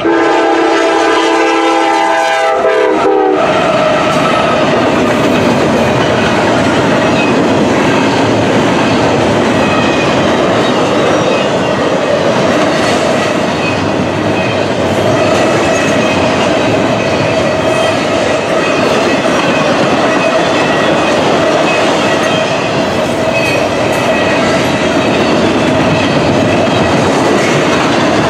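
CSX freight locomotive's air horn sounding a held chord for about the first three seconds, dipping slightly in pitch just before it cuts off. Then comes the steady rumble and wheel clatter of intermodal freight cars rolling past.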